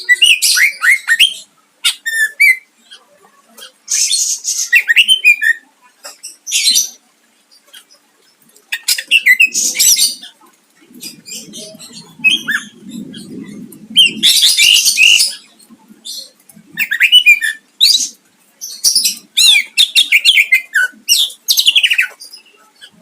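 Cucak ijo (green leafbird) singing loud phrases of rapid, sweeping high notes and harsh chattering, in bursts of a second or two with short pauses between. A low rumbling noise runs underneath for a few seconds midway.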